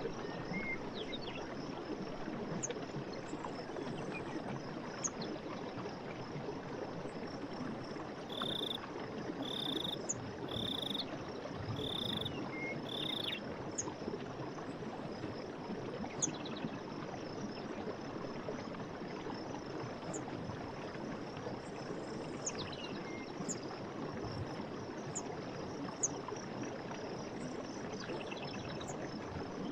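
Night forest ambience: a steady rush like flowing water, with faint insect ticks throughout and a run of five short animal calls about a second apart in the middle.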